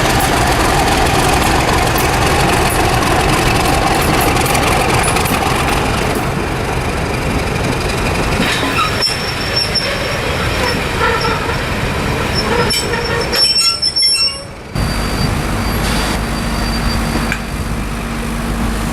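A Class 31 diesel locomotive and coach rolling slowly into a station, with wheel and brake squeal, then fainter squeaks and clicks as the train slows. About fifteen seconds in, a steady low diesel engine hum with a held tone takes over, as the locomotive idles at a stand.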